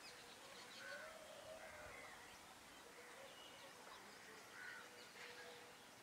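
Faint bird calls: scattered short chirps and whistled notes, with a lower curving note about a second in, over a quiet outdoor background.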